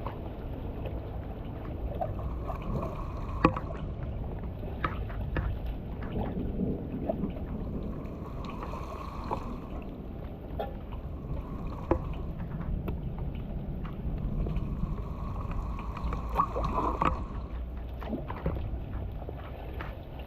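Water flowing and splashing steadily, with scattered sharp knocks and clicks throughout.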